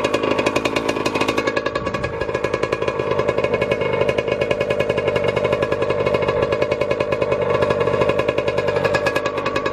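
Small dirt bike engine running steadily at low revs, a rapid even putter of firing pulses.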